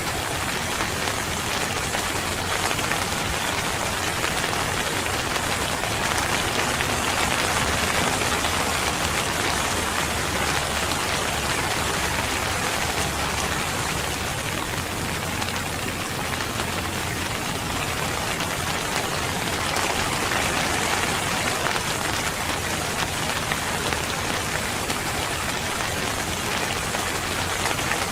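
Steady rain falling on a surface, an even hiss without pause or change.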